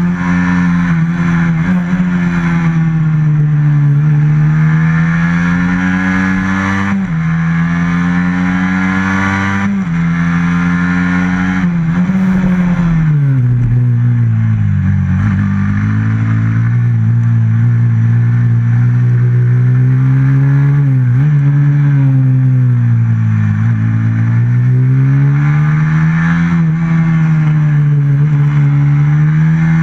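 Racing motorcycle with a stock Honda FXR150 single-cylinder engine, heard continuously under hard throttle: the engine note climbs, breaks briefly at each gear change, and drops away when the throttle comes off, then winds up again.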